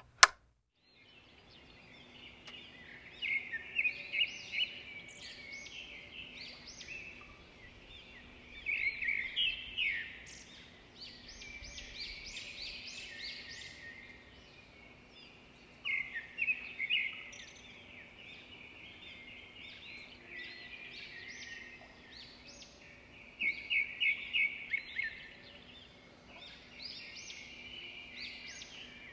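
A sharp click at the very start, then small birds chirping and twittering, with bursts of rapid trills every several seconds, over a faint steady low hum.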